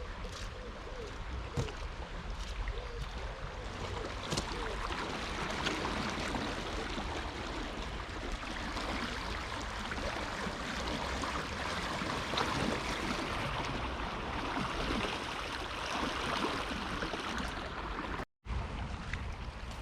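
River Cole in flood, its swollen water rushing and churning in a steady wash of noise. The sound cuts out for a moment near the end.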